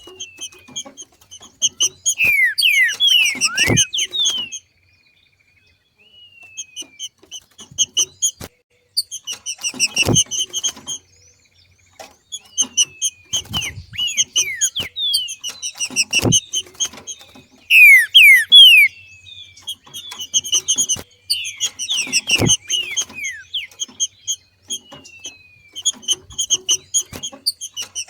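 Green-winged saltator (trinca-ferro) giving its 'macheado' call: bursts of rapid, short repeated chip notes mixed with quick downward-sliding whistles, coming every few seconds with a brief pause early on.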